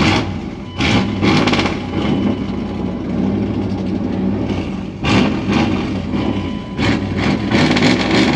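Dodge mud truck's engine running just after starting, with the throttle blipped several times: rises in loudness about a second in, around five seconds and again near the end. It is running rough and doesn't really want to idle.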